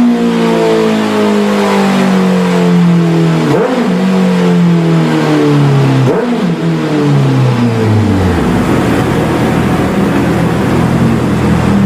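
Honda CBR650F inline-four running through an aftermarket exhaust, its note falling steadily as the revs drop, with two short blips of revs about a third and halfway through. Near the end it settles into a low, rough rumble.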